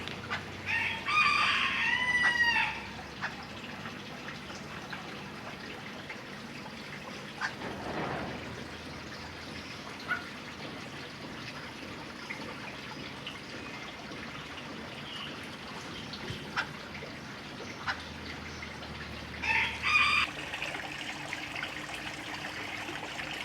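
A rooster crowing twice: one long crow about a second in and a shorter one near the end, over a faint steady trickle of water.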